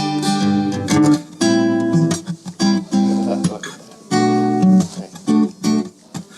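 Acoustic guitar strumming chords in short, halting phrases, each chord ringing briefly before the next stroke or a short break.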